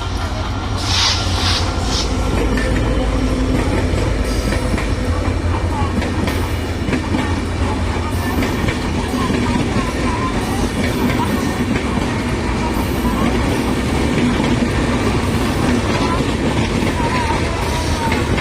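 Bangladesh Railway train running on the track: a steady heavy rumble with wheel clatter.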